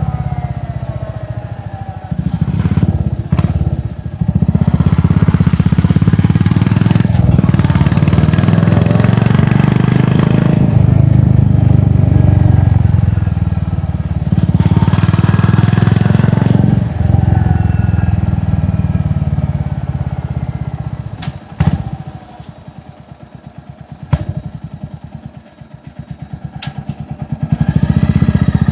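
Royal Enfield Hunter 350's single-cylinder engine through an aftermarket exhaust, under way and changing pitch as it revs. It is loud for most of the time, drops to a lower, slower thumping about three-quarters through, and picks up again near the end.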